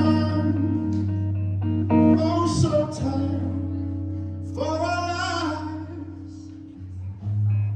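Live band music: guitar over a steady held bass note, with a bending melodic line, a voice or lead guitar, swelling about halfway through.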